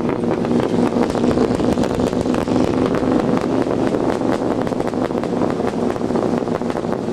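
Truck engine running steadily while driving off-road, with many quick knocks and rattles from the bumpy ground.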